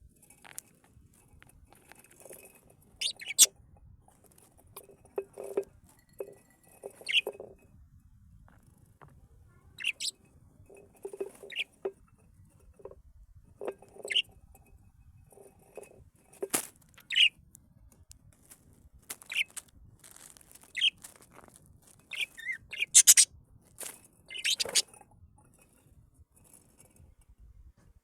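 Cage birds chirping: short, sharp, high calls at irregular intervals, a few of them loud.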